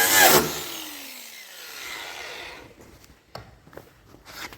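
A power tool runs, cuts off about half a second in and winds down with a falling whine. A few light knocks follow.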